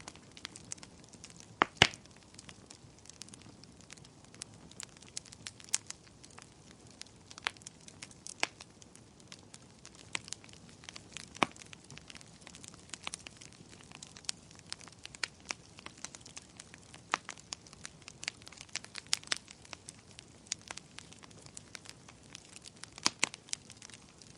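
Campfire crackling: irregular sharp pops and snaps over a faint low hiss, the loudest pop about two seconds in.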